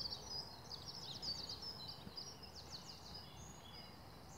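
Small songbirds singing faintly, a run of quick high trills and chirps, over a low outdoor background hum.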